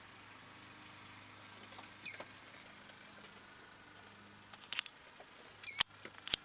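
Killdeer chick peeping: two short, high calls that fall in pitch, about three and a half seconds apart, with a few light clicks between them.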